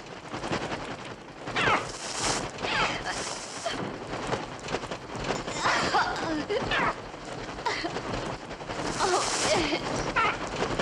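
A swarm of attacking birds: many shrill, gliding screeches over a dense, rapid rattle of flapping wings. In this film the bird cries are electronic, made on a Mixtur-Trautonium.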